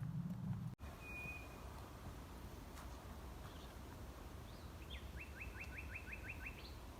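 Male nightingale singing its territorial song, faint and outdoors. There is one clear whistled note about a second in, then near the end a rapid run of about eight falling notes. A low rumble cuts off abruptly just under a second in.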